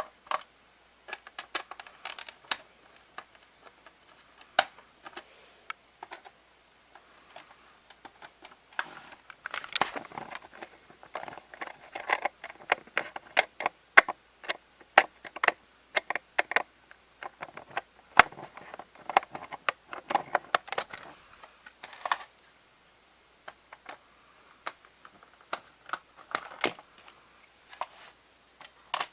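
Hands handling a VHS cassette and its loose tape: irregular plastic clicks and crinkly rustling, busiest in the middle.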